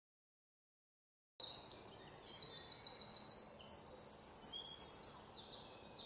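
Dead silence for about a second and a half, then birds chirping and calling, including a fast trill of quick repeated high notes, fading near the end.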